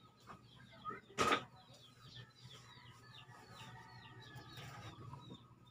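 A brief sharp noise about a second in, then a quick run of faint, high chirps from a small bird, each falling in pitch, about four a second.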